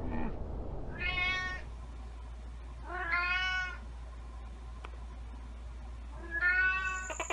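Domestic cat meowing three times, each meow lasting under a second, spaced a few seconds apart.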